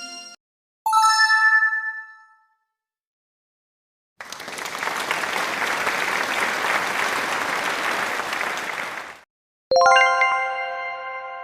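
Three stock sound effects in turn: a short chime ding about a second in that fades within a second and a half, then about five seconds of steady applause, then a bright bell-like success chime of several tones near the end, ringing on and fading.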